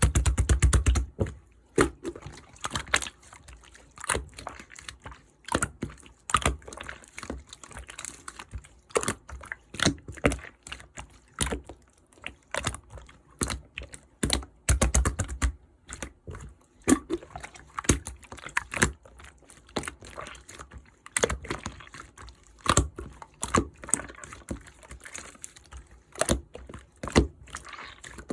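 Clear deep-pink slime being squished and folded by hand, making a dense run of irregular sticky clicks and pops, with heavier wet squelches about a second in and again midway.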